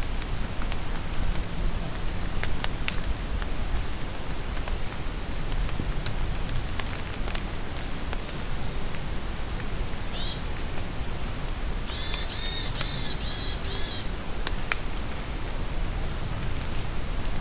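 Birds singing in a forest in the rain: a few short high calls, then a quick run of repeated chirping notes about twelve seconds in. Under them is a steady patter of rain with scattered drips.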